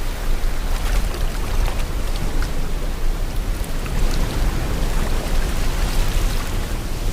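Sea water washing and splashing in the wind: a steady rushing noise with a low rumble and many small crackling splashes.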